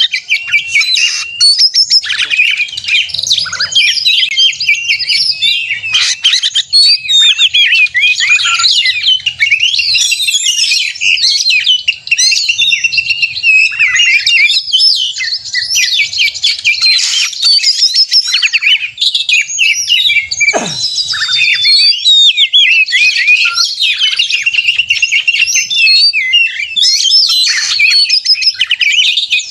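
Oriental magpie-robin (kacer) in full song: a loud, unbroken stream of quick whistles, trills and chattering phrases. About two-thirds through, one note slides steeply down in pitch. This is the rapid, aggressive song of a bird in fighting mood.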